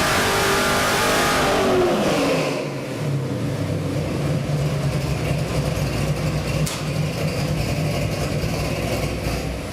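Ford 418 Windsor stroker V8 with a carburetor, held at high revs for about two seconds, then the revs fall away and it settles into a steady idle.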